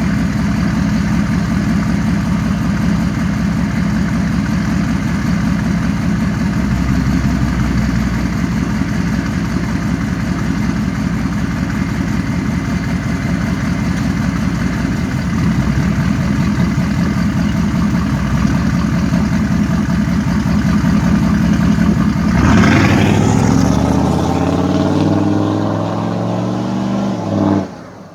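6.5-litre turbo diesel V8 with a 4-inch straight-pipe axle-dump exhaust, idling steadily. About twenty-two seconds in it is revved once, its pitch falling back over the next few seconds, and the sound stops abruptly near the end.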